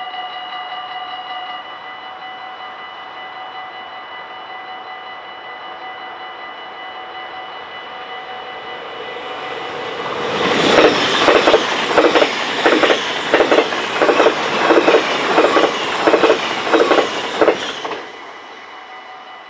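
Level-crossing warning bell ringing steadily, a little quieter after about two seconds as the barriers come down. From about halfway a train passes at speed with a regular clatter of wheels over the rails, and it cuts off suddenly near the end while the bell keeps ringing.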